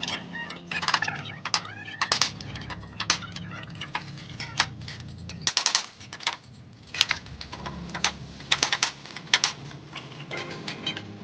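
Irregular sharp clicks and knocks, some in quick clusters, from work on fitting metal rain gutters.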